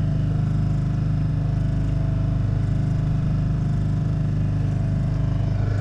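A small yacht's engine running steadily at constant speed, a low even drone.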